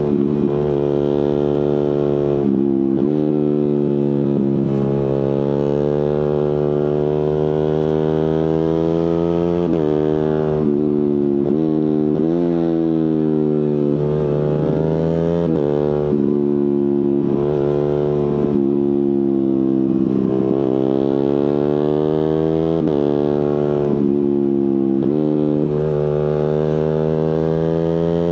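Suzuki GSX-R150's single-cylinder engine through a Prospeed aftermarket exhaust, ridden through the gears: the pitch climbs under throttle and drops sharply at each quickshifted upshift, about half a dozen times, with a few slower falls in pitch as it slows.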